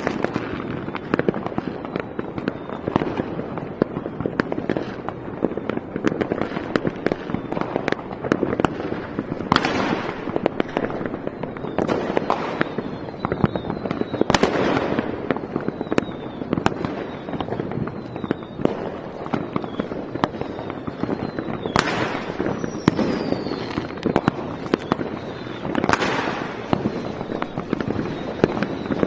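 Fireworks going off continuously: a dense crackling of many small bursts, with louder bursts every few seconds and a few faint falling whistles.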